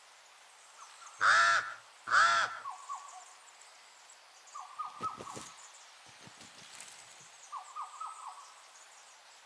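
Pied crow giving two loud, harsh caws about a second apart. Softer quick runs of high chattering notes repeat through the rest.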